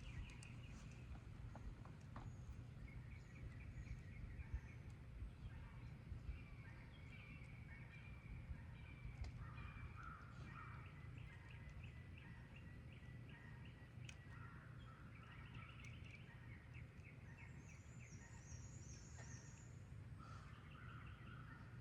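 Faint birds chirping in repeated short series, with a higher run of chirps near the end, over a low steady rumble of wind and handling noise.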